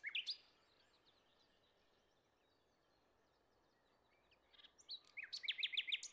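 Small birds chirping against a quiet background. A couple of quick rising chirps come at the start, faint scattered calls follow, and a fast run of about half a dozen chirps comes near the end.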